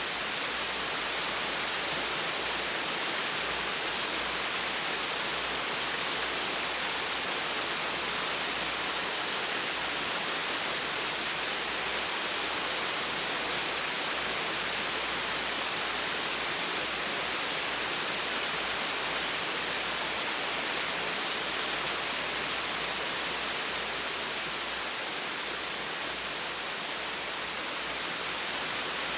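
A gentle waterfall: a steady, unbroken rush of falling water with a bright hiss.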